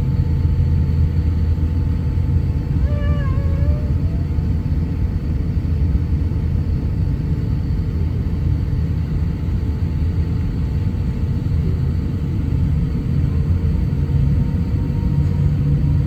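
Jet airliner engines: a steady low rumble with thin whine tones over it, one whine slowly rising in pitch over the last few seconds. A brief wavering high call sounds about three seconds in.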